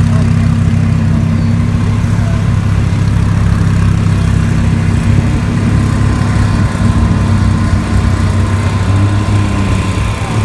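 Lamborghini Huracán's V10 idling steadily close by, then pulling away slowly near the end.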